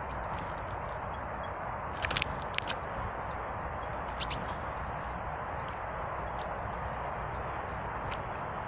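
Steady rush of river water, with a few sharp taps and scattered short, high chirps of small birds at a feeder, most of the chirps near the end.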